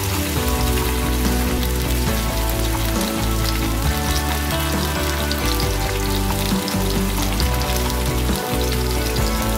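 Bitter melon rings sizzling steadily in hot oil in a frying pan.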